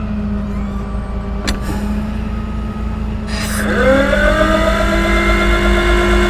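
Hydraulically driven utility-truck jib articulating, over the steady hum of the truck's Cummins diesel and hydraulic system. About three and a half seconds in, a whine starts, rises in pitch, then holds steady.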